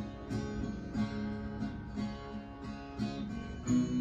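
Acoustic guitar strumming chords in a steady rhythm, the notes ringing on between strokes.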